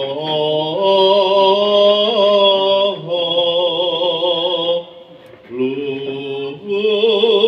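A voice chanting in Javanese in long, drawn-out held notes with a wavering pitch, pausing briefly about five seconds in.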